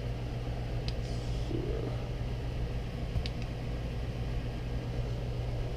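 Steady low background hum with a few faint light clicks, one about a second in and another just past three seconds.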